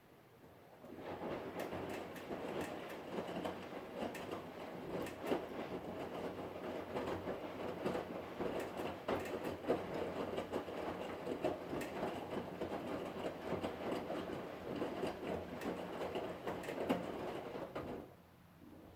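Hotpoint Ariston washing machine running: a rattling, clattering mechanical noise with many sharp clicks and knocks. It starts about a second in and cuts off suddenly near the end.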